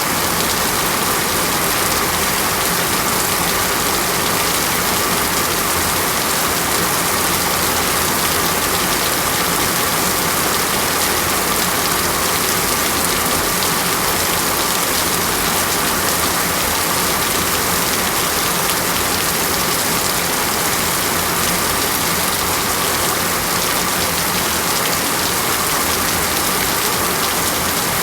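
Heavy rainforest rainstorm: rain pouring down in a dense, steady hiss that holds even without breaks or thunder.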